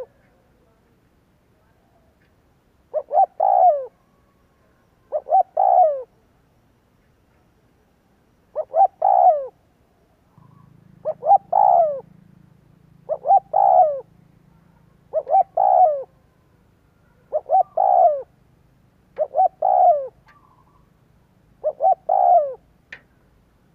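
Spotted dove cooing over and over, about nine phrases roughly two seconds apart. Each phrase is two short notes and then a longer, falling coo.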